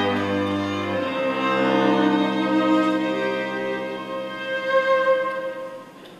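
Slow string music, with violin and cello holding long sustained notes. A low held note stops about a second in, and the music dies away near the end.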